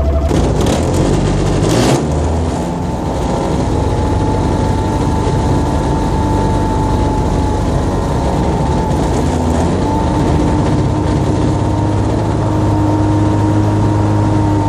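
X-Air microlight's aircraft engine on a cold start with the choke on: it catches and runs unevenly for the first couple of seconds, then settles into steady running as the revs are slowly brought up toward 3,000, with a change in pitch about ten seconds in.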